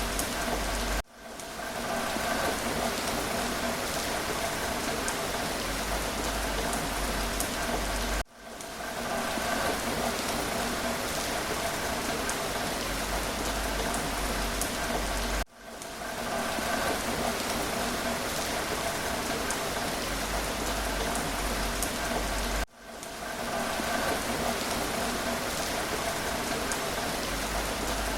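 Steady rain falling, an even hiss with faint patter of individual drops. It cuts out briefly and fades back in four times, at regular intervals of about seven seconds.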